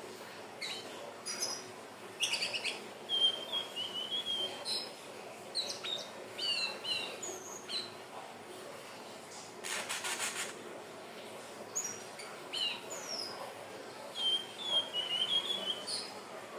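Indigo flycatcher (sikatan ninon) singing: a run of thin high whistles and short chirps, with a quick warbled trill about three seconds in and again near the end. A brief harsh rasping burst comes about two-thirds of the way through.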